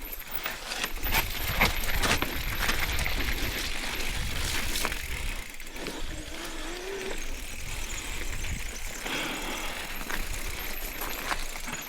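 Mountain bike riding over rough, wet trail: the bike rattles and clicks over the ground over a low rumble, with a short squeak a little past halfway.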